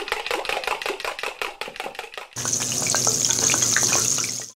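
A quick run of sharp knocks, several a second, like a knife chopping on a board. About two seconds in it gives way to a steady sizzle of food frying in a hot pan, which stops just before the end.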